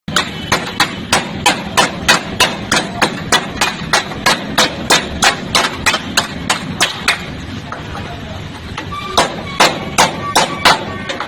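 Hammer striking a car's sheet-metal body panel in quick, even blows, about three a second, during dent repair. The blows stop for about two seconds, then resume for a short run near the end.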